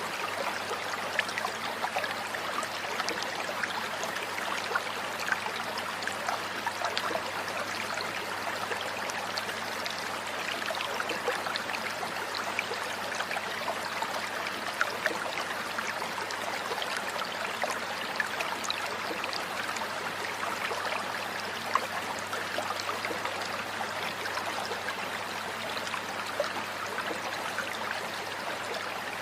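Steady running water, like a trickling stream, with many small splashing ticks and no distinct bird song.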